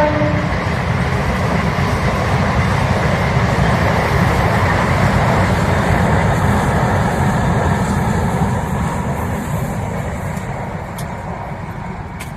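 A train running on the rails: a steady rushing rumble that slowly fades over the last few seconds. It opens on the tail of a horn note, and a few faint clicks come near the end.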